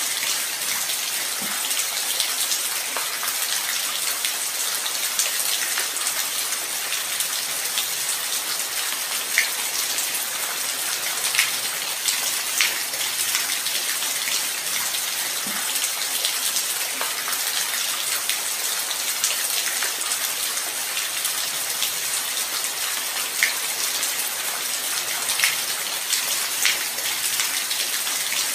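Light rain falling steadily as an even hiss, with a handful of louder single drops ticking now and then.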